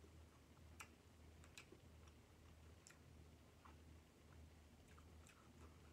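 Near silence: a few faint, scattered mouth clicks from chewing seafood close to the microphone, over a low steady hum.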